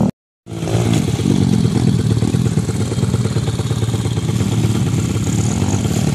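Dirt bike engine running close by, its pitch rising and falling now and then with the throttle. The sound drops out briefly just after the start.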